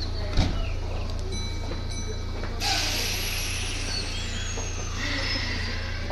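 Kintetsu Nara Line local train standing at the platform with a steady low hum. After a sharp click near the start, a sudden hiss of released air sets in a little under halfway and lasts about two seconds.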